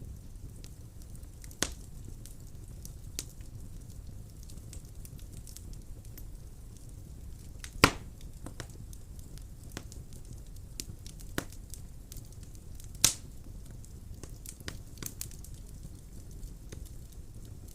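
Wood fire burning in a fireplace: a steady low rumble of flames with scattered crackles and sharp pops of burning wood, the loudest pops about eight and thirteen seconds in.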